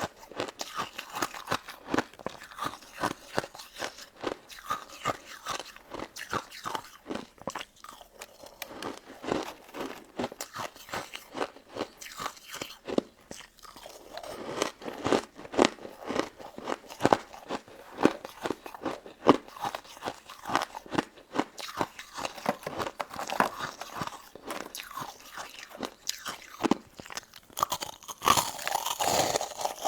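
Close-miked crunching and chewing of a crisp, icy crystal dessert: irregular sharp crunches, several a second, with a brighter, hissier crunching near the end.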